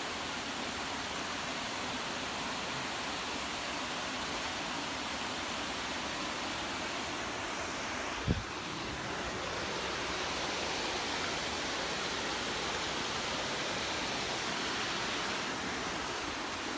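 Steady rushing of a waterfall, an even roar of falling water with no change in level. A single brief thump about eight seconds in.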